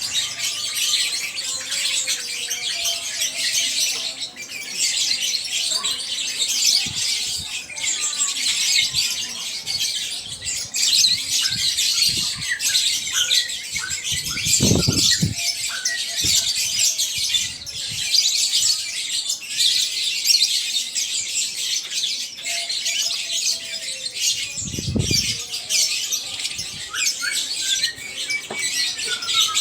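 Many caged canaries and lovebirds chirping, trilling and chattering together without a break, a dense high-pitched din. Two brief low thumps break through, one midway and one near the end.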